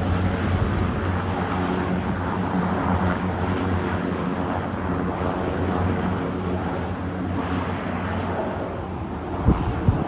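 Aircraft engine running steadily with a low hum, easing off a little toward the end; two short thumps near the end.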